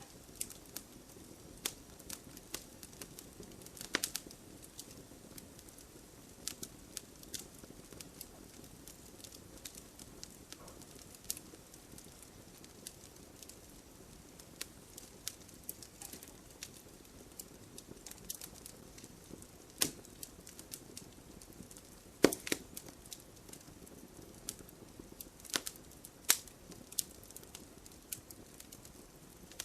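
Wood fire burning in a fireplace: a low steady hiss under irregular crackles and pops of burning logs, with a few louder snaps about 4, 20, 22 and 26 seconds in.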